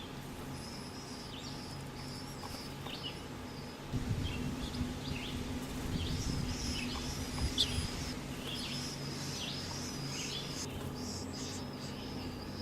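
Small birds chirping: many short, high, thin calls repeating over and over. A low rumble joins in from about four seconds in and fades a few seconds later.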